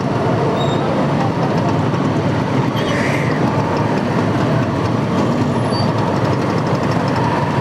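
Steady, loud road noise of a motorcycle ride in heavy traffic: engines of the bike and the surrounding vehicles mixed with wind on the action camera's microphone.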